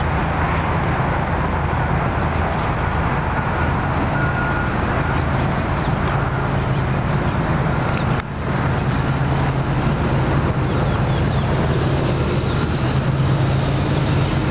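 Union Pacific diesel freight train rolling by: a steady low diesel engine drone under a broad, continuous rush of train noise. The sound drops out briefly about eight seconds in.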